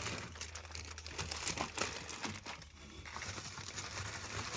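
Wrapping crinkling and crumpling in quick irregular crackles, as breakfast sandwiches are wrapped for freezing, over a faint steady low hum.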